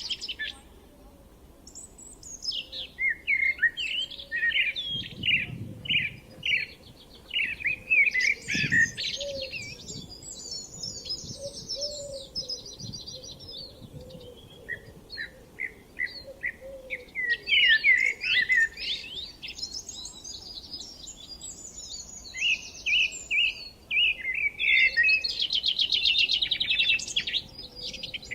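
Several songbirds singing and chirping at once, overlapping varied phrases and fast trills almost without a break.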